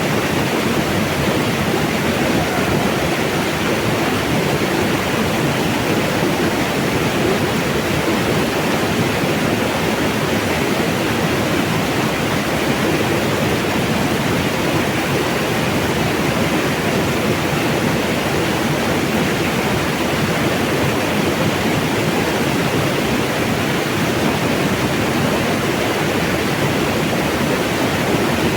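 Mountain water rushing steadily, an even, unbroken roar of falling and flowing water.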